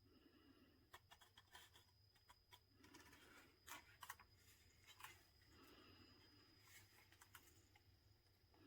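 Faint scattered clicks and soft scratching, like light handling of small objects, over a faint steady high-pitched whine.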